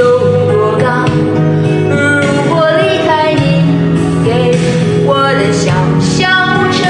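A woman singing a Mandarin love song over instrumental backing music.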